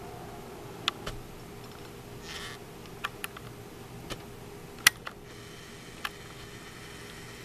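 Handling clicks and taps on a hand-held camera while it is being set up and focused: about eight sharp clicks, the loudest about five seconds in, and a brief rustle around two and a half seconds. Under them runs a steady low hum.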